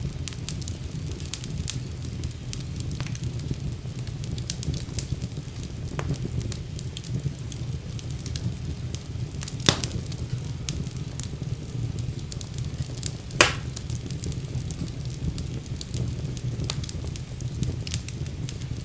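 Wood fire burning in a fireplace: a steady low rumble of flames with frequent scattered crackles, and two louder pops about halfway through and past two-thirds of the way.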